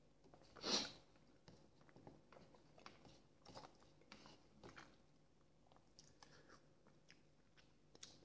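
Quiet close-up chewing of soft boiled potato vareniki: faint wet mouth clicks and smacks scattered throughout. A single brief louder hiss comes a little under a second in.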